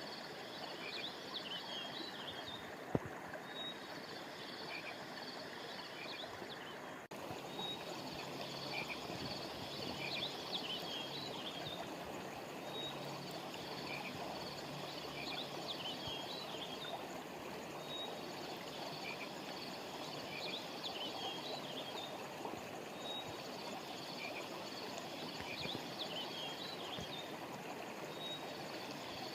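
River water flowing steadily, with clusters of high chirping calls repeating about every three seconds. A single sharp click sounds about three seconds in.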